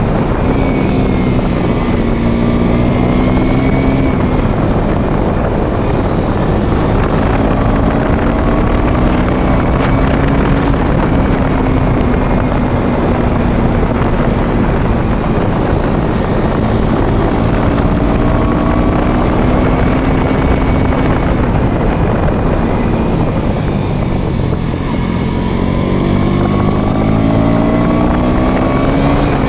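Motorcycle engine running under way, its pitch rising and falling with the throttle, dipping and then climbing again near the end. Wind rushes over the microphone throughout.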